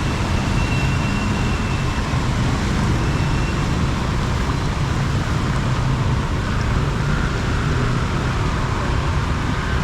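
Heavy rain with road traffic on a flooded street: a steady dense hiss over a low rumble of passing vehicles.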